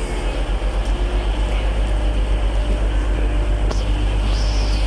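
Class 185 diesel multiple unit running steadily at the platform, a low rumble with a faint engine hum, with a brief high-pitched tone near the end.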